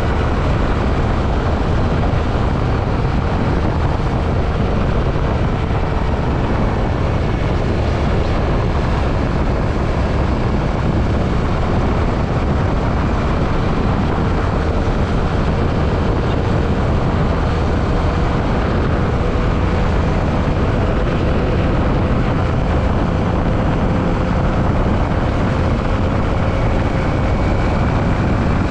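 Yamaha WR155 single-cylinder motorcycle riding at a steady speed: a strong rush of wind over the microphone, with the faint engine note holding steady and creeping slowly up in pitch near the end.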